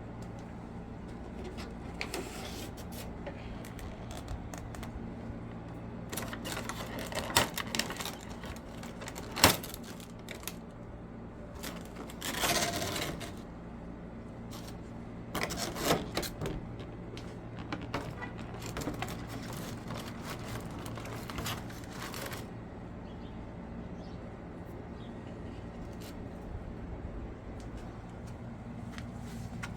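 Scattered clicks and short clattering knocks, as of hard objects being handled, over a steady low hum; the sharpest click comes about nine and a half seconds in.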